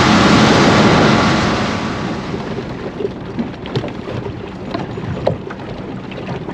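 Small boat under way: a steady rush of engine, wind and water noise that eases off between one and two and a half seconds in, leaving a quieter hiss with scattered light knocks.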